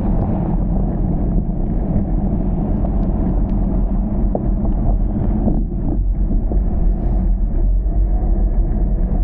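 Steady low rumble of a car on the move, without a break.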